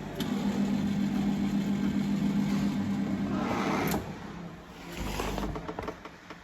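A steady mechanical hum, like a small motor, runs for about four seconds with a hiss rising near its end, then stops suddenly; a shorter, fainter rush follows about a second later.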